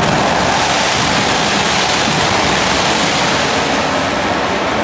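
Pyrotechnic spark fountains and a falling spark curtain giving off a loud, steady rushing hiss, with no separate bangs.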